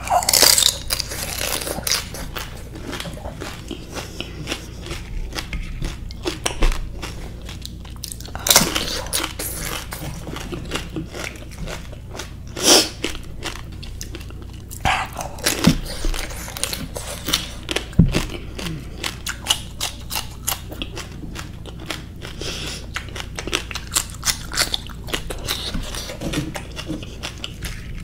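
Pani puri being eaten: crisp fried puri shells crunching and being chewed mouthful after mouthful, with a run of fine crackles and a few sharper crunches.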